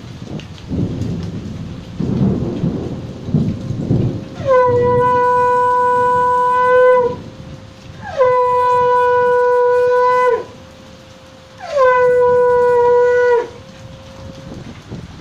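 Heavy rain with rumbling gusts for the first few seconds, then a blown horn sounding three long blasts. Each blast scoops up into a steady note and holds for about two and a half seconds.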